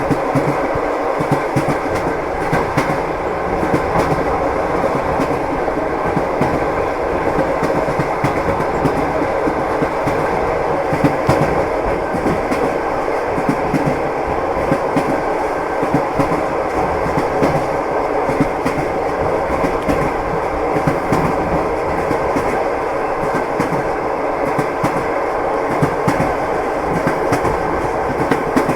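Train wheels clattering over the rails: a steady rumbling run with many short knocks from the wheels striking rail joints.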